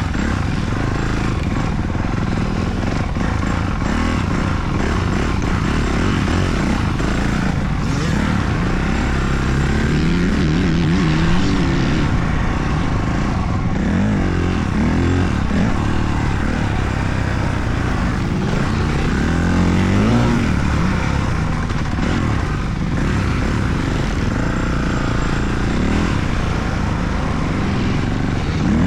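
Motocross dirt bike engine revving up and falling back again and again as it is ridden around the track, over steady wind-like noise.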